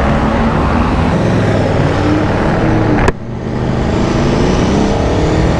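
Aprilia Tuono V4 Factory's 1,077 cc V4 engine running under wind and wet-road noise while riding. About three seconds in there is an abrupt click and break, after which the engine note rises steadily as the bike accelerates.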